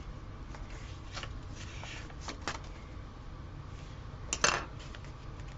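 Light clicks and rustles of sticker sheets and planner pages being handled, with one sharper click a little after four seconds in, over a low steady hum.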